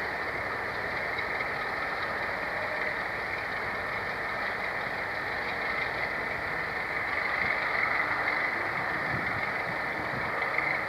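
A train's steady running noise, holding even with no distinct knocks or beats, a slight rise about two-thirds of the way through.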